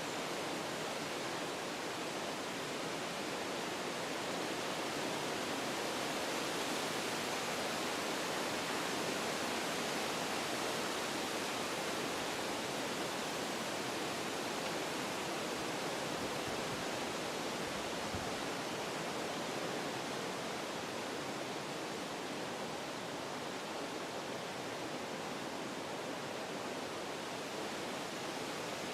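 Wind blowing through forest trees, a steady rushing that swells a little in the first third and then eases off.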